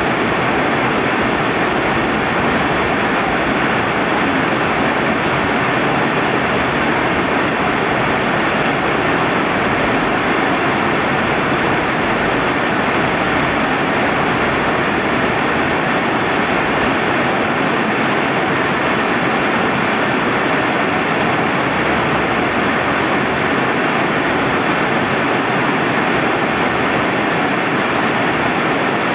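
Rain falling steadily beside a flowing river: a dense, even hiss of rain and rushing water that does not change.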